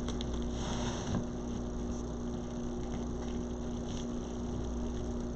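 Steady electrical hum with a low background hiss: room tone. A faint soft rustle sits over it in the first second or so.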